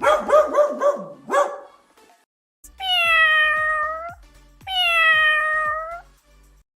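Two long cat meows, each about a second and a half, the pitch sagging slightly through each call. They are preceded by a quick run of short dog barks in the first second and a half.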